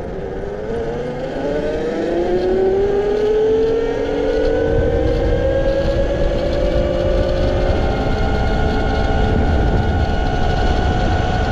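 Yozma IN 10 Pro electric dirt bike at full throttle on a top-speed run: its mid-drive motor whine climbs steadily in pitch as speed builds and levels off about eight seconds in. Wind rumble on the microphone grows loud from about four seconds in.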